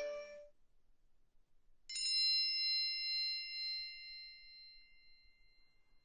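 Phone alert tone: a single bright bell-like ding about two seconds in, ringing out and slowly fading over about four seconds. At the very start, the last half-second of a previous short alert chime dies away.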